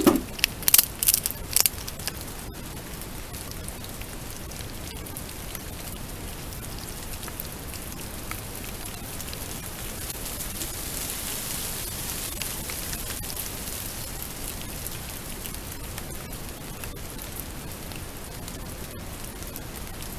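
Pouring rain falling steadily, with a few sharp knocks in the first two seconds.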